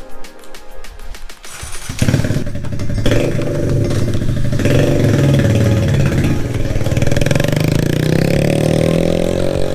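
Kawasaki Z125 Pro's single-cylinder engine starting up suddenly about two seconds in after a few light clicks, then running, with its pitch rising near the end as it revs.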